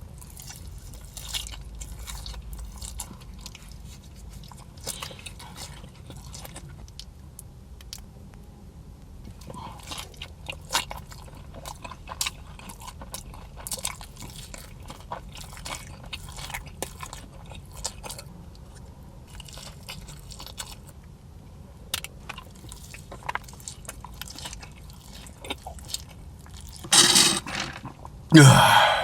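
Close-miked mukbang eating: crunching, biting and chewing of crispy Wingstop chicken wings, in many short sharp crunches. Two much louder bursts come about two seconds before the end.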